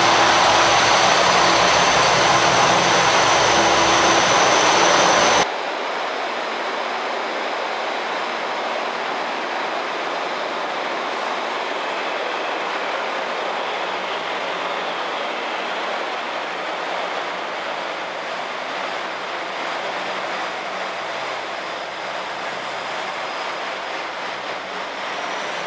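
JR KiHa 120 diesel railcars. One passes close by loudly for about five seconds; then the sound drops abruptly to a quieter, steady run of a railcar's engine and wheels as it moves slowly along a platform under a station roof.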